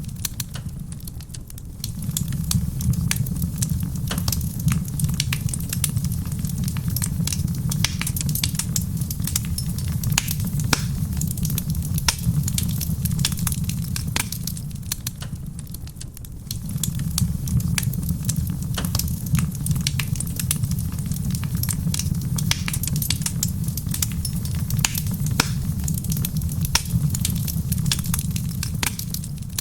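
Wood fire crackling in a stone fireplace, with many sharp pops and snaps, over a steady low rumble mixed with soft rain on a roof. The rumble dips briefly about a second in and again about halfway through.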